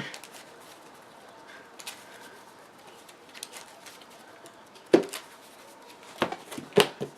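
A few short taps and clicks of playing cards being handled and set down on a table, the loudest one about five seconds in, over quiet room tone.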